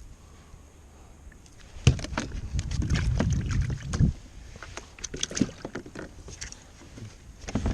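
Knocks, clatter and water sounds on a kayak over a low wind rumble, loudest in a burst of sharp knocks from about two to four seconds in, then lighter scattered clicks.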